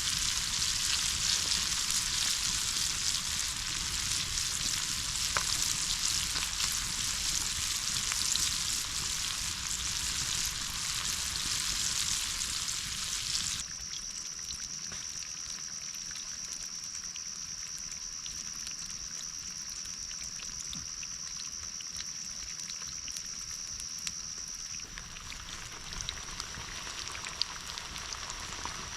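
Food frying in hot oil in a pan, a dense steady sizzle. About halfway through it drops suddenly to a quieter sizzle, with a steady high-pitched tone running beside it.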